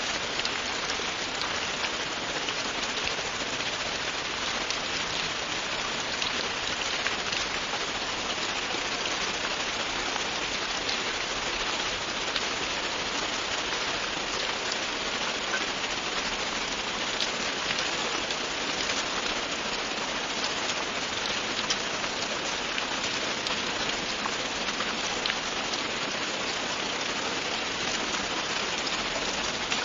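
Steady, continuous rain falling, a dense even hiss with many fine drop ticks.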